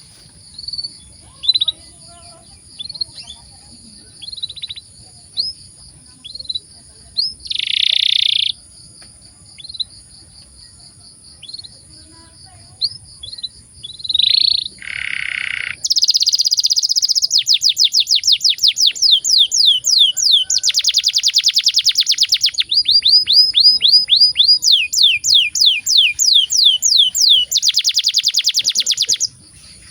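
Canary singing. Scattered short chirps and calls come first, then from about halfway a long, loud song of fast trills of repeated down-slurred notes that cuts off near the end. A steady high-pitched whine runs underneath.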